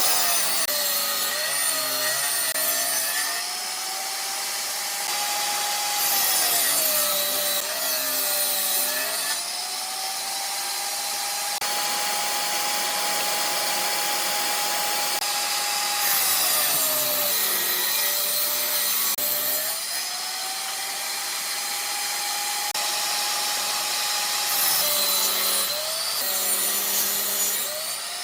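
Electric power tool cutting wood, its motor running steadily between cuts. Four times it takes a cut: the motor pitch sags under the load, a harsh cutting hiss rises, and the pitch climbs back when the cut ends.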